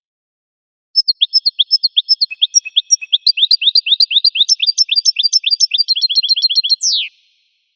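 A finch singing one long rapid twittering phrase that starts about a second in, speeds up toward the end and closes with a single falling note.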